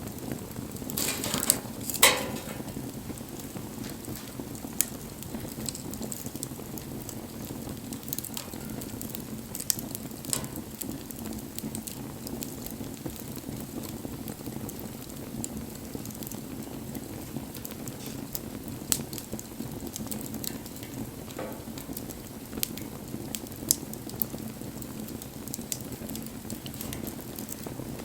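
Wood fire burning: a steady low rush of flame with scattered crackles and pops, the loudest pop about two seconds in.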